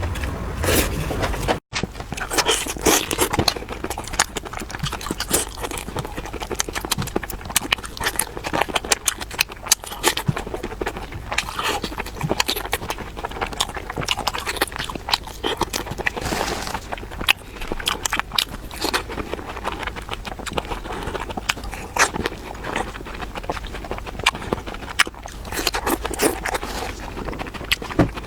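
Close-miked eating sounds: continuous chewing with many small crisp clicks and crackles, mouth sounds following one another quickly.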